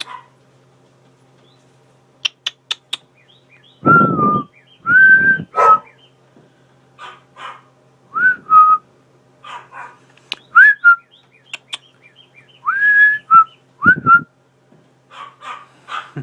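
A dog whining: a series of short, high, whistle-like whines, some rising then holding, in irregular groups. A few very short high chirps come before them.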